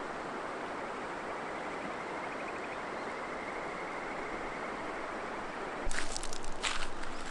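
Steady rushing of a river flowing past. Near the end a run of sharp clicks and knocks breaks in close by.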